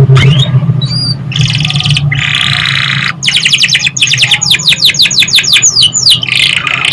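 Domestic canary singing: a rising note, then dense buzzy trills, then a fast run of sharply descending whistled notes, about eight a second.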